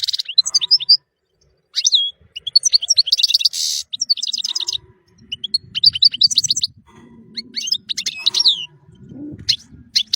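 European goldfinch singing: rapid, high, twittering phrases mixed with buzzy notes, broken by a short pause about a second in. A faint low rumble sits underneath in the second half.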